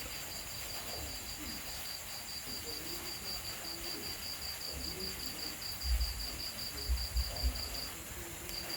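Cricket chirping at night in a steady, high, pulsed trill of about seven pulses a second, which breaks off briefly near the end. A few low thumps come about six to seven and a half seconds in.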